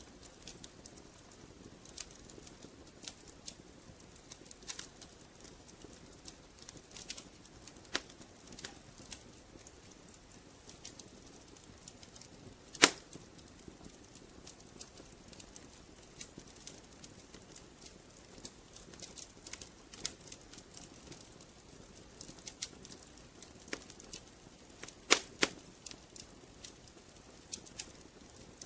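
Wood fire crackling: irregular sharp pops and snaps over a soft low hiss, with the loudest pop about halfway through and a quick pair of pops near the end.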